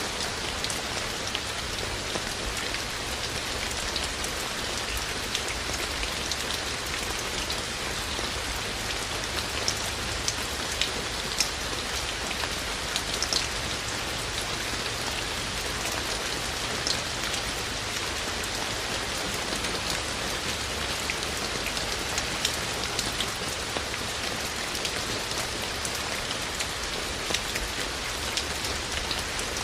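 Steady rain falling, a dense even hiss with individual drops ticking sharply throughout.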